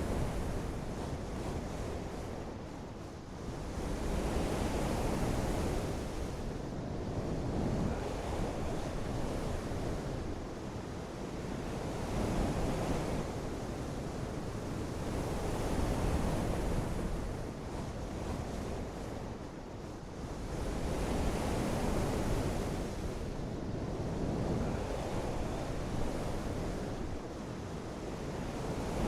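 Steady rushing of water and wind that swells and eases every few seconds.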